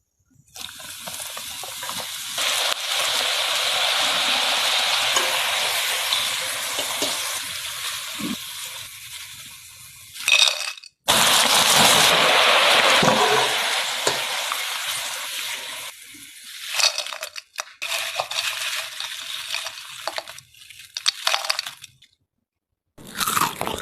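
Kitchen cooking sounds: a steady hiss in several separately cut stretches, with light clinks of utensils.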